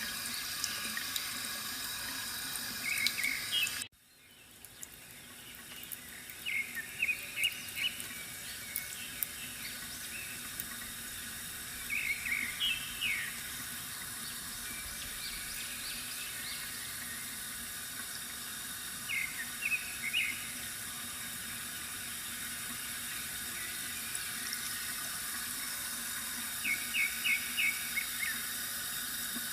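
Bamboo water fountain trickling steadily, with birds chirping in short bursts every several seconds. The sound cuts out abruptly about four seconds in and fades back up over the next two seconds.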